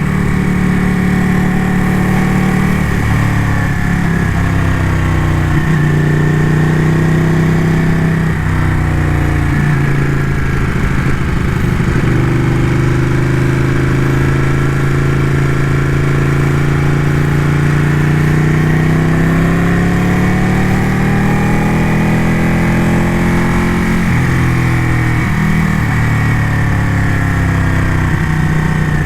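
Ducati motorcycle engine running under way, its pitch dropping and climbing again several times as the rider shifts gears and changes speed.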